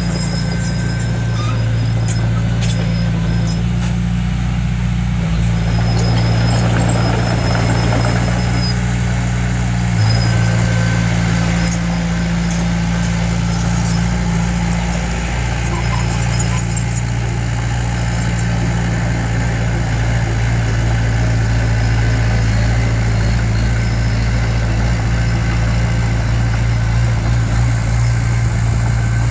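Diesel engine of heavy earthmoving equipment running steadily, its engine speed shifting slightly a few times.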